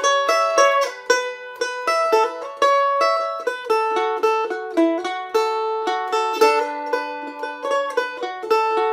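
Solo mandolin playing a fast picked melody, a quick run of bright plucked notes that ring and decay between picks.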